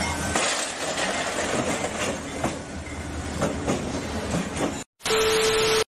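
Freight train with a diesel locomotive rolling past, with clacks and clanks from its wheels on the rails. Near the end, after a brief cut, a louder hiss with one steady tone takes over for about a second, then stops abruptly.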